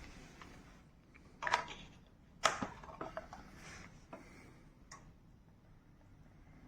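Scattered light clicks and knocks of plastic parts being handled: the dirty-water tank and filter of a wet-dry vacuum cleaner. The sharpest knock comes about two and a half seconds in, and the last click about five seconds in. After that there is only faint room tone.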